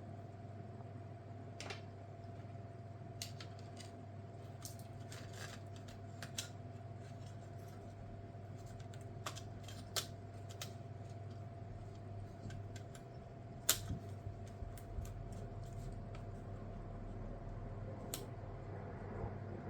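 Scattered light clicks and taps from small tools and laptop parts being handled during disassembly, at irregular intervals over a steady low hum.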